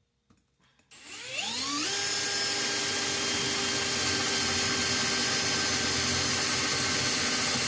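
Electric drill starting about a second in, spinning up with a rising whine over about a second, then running at a steady high speed.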